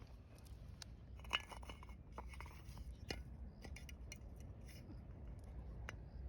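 Light metallic clicks and clinks of small hard parts being handled, scattered and irregular. The sharpest comes about a second in, with others near the middle and end.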